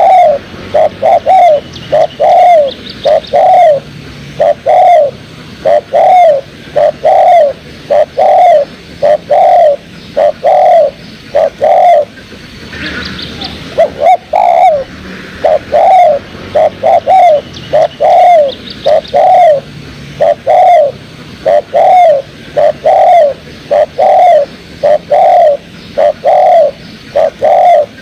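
Spotted dove (tekukur) cooing: loud, evenly repeated arched coo notes in a steady run, with a short break about halfway. During the break a brief high chirping is heard.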